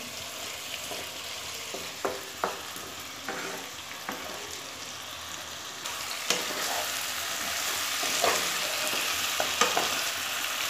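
Spiced pumpkin and potato sizzling in oil in a nonstick kadai as the masala is fried down, with a spatula stirring and giving scattered scrapes and taps against the pan. The sizzle grows louder about halfway through.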